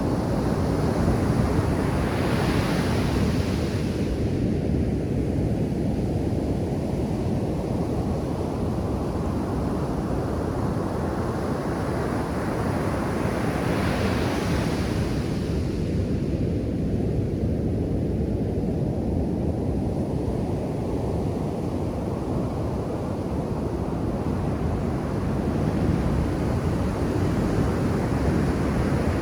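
Ocean surf on a beach: a steady low rush of breaking water, with a wave crashing about two seconds in and another around fourteen seconds, each followed by a hissing wash that fades, and a third building near the end.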